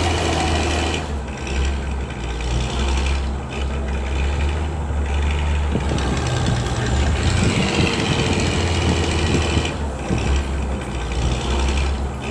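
Heavy engine running steadily, a strong low hum with a high whine that comes and goes.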